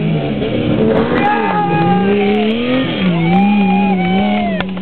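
Rally car engine revving hard on a dirt stage, its pitch swinging up and down several times as the revs rise and fall.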